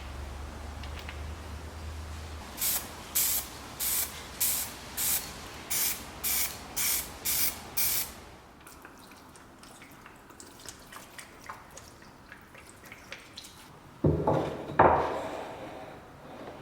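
About ten short spray bursts in quick succession, roughly two a second, each a brief hiss. Faint ticks follow, then two louder noises near the end.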